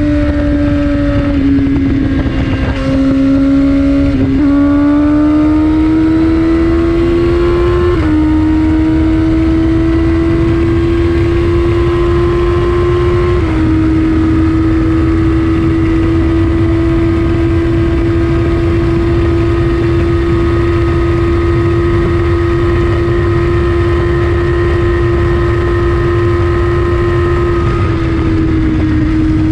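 2014 Kawasaki ZX-14R's 1441 cc inline-four, heard through an Akrapovic Racing Line exhaust, pulling hard. The engine note climbs through the gears, with quick upshifts about 4, 8 and 13 seconds in, then holds a steady high-speed note under a rush of wind noise, easing slightly near the end.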